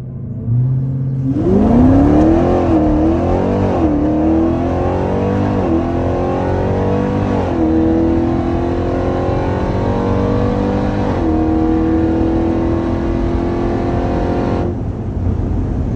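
Whipple-supercharged 6.2-litre V8 of a Jeep Grand Cherokee Trackhawk at full throttle from a launch, heard from inside the cabin, making about 12 psi of boost. The engine note climbs and drops back at each upshift through the gears, then lets off near the end.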